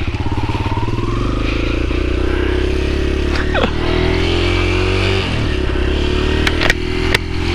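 Kawasaki KLX140 dirt bike's small single-cylinder four-stroke engine idling steadily, with its exhaust plug pulled out of the muffler. A few sharp clicks come near the end.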